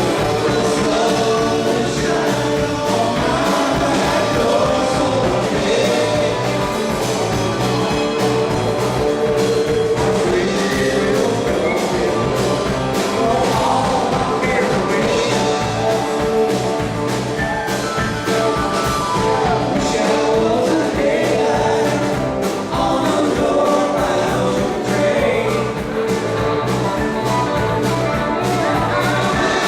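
A live rock band playing a jam, with singing over drums and guitars.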